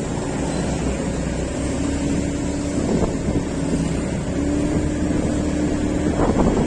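A road vehicle under way, its engine running steadily under wind noise on the microphone, with a droning note that comes and goes twice; the wind buffeting grows heavier near the end.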